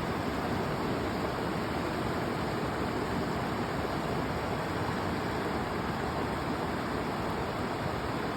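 River water rushing steadily with a constant, even sound.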